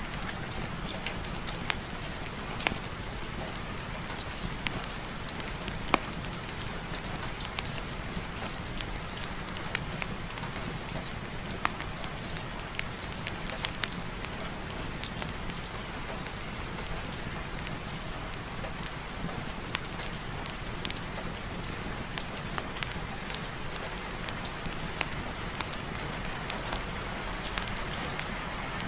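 Steady rain, with scattered sharp clicks and pops throughout, one louder pop about six seconds in.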